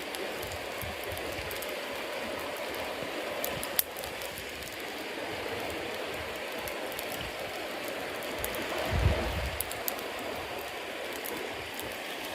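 Campfire of damp wood and wet cedar leaves burning with a steady hiss and frequent sharp crackles and pops, one louder pop about four seconds in. A brief low rumble comes a little past the middle.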